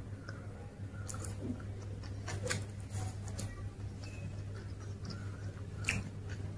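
A person chewing a mouthful of Mysore masala dosa with closed lips, giving soft, irregular wet mouth clicks, over a steady low hum.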